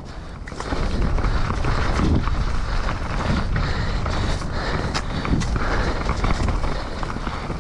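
Mountain bike riding fast over a wet, rough trail: steady rumble of tyres and wind on the microphone, with frequent sharp knocks and rattles from the bike over bumps.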